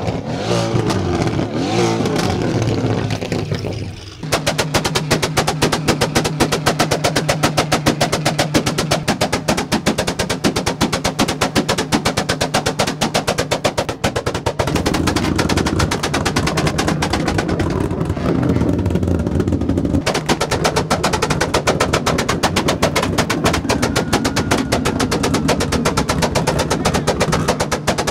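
A car engine revving for about four seconds. After that, a rapid, even pulse with music runs to the end.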